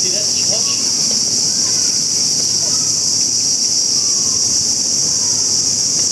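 Steady chorus of insects, a loud, continuous high-pitched drone, with faint voices underneath.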